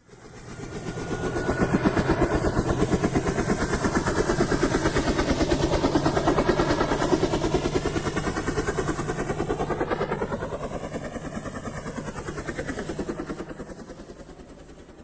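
Helicopter flying past: a fast, even beat of rotor blades that fades in, holds, drops in pitch as it goes by and fades away.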